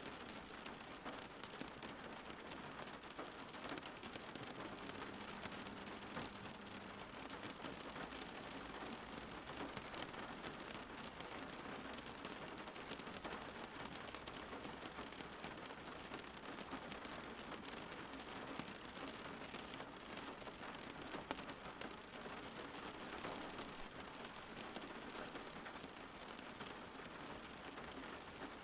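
Steady, soft rainfall: an even patter of raindrops falling on a surface, with no change in intensity.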